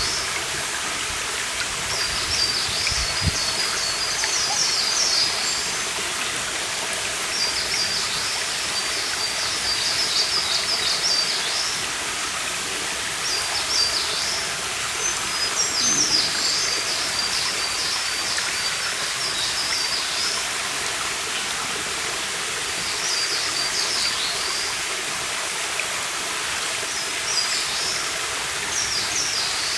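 A stream running steadily, with a small bird singing short high trilling phrases every few seconds over it.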